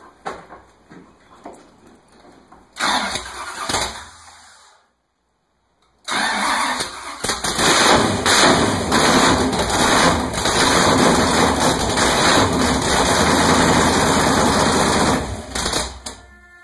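A 1970 Pontiac Trans Am's V8 on its first start after a rebuild: a brief burst of starter cranking, then after a short gap the engine fires right up and runs loud and steady for about ten seconds before cutting off near the end. It fired right away because the ignition timing was set right.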